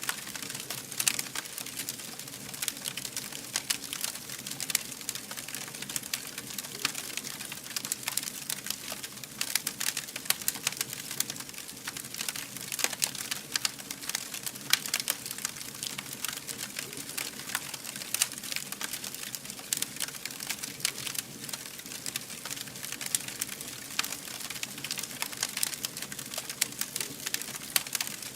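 Fire burning and crackling: a steady hiss with dense, irregular sharp pops and snaps throughout.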